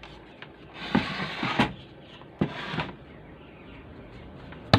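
Handling noise on a repair bench: a few sharp clicks and knocks, with a louder knock near the end.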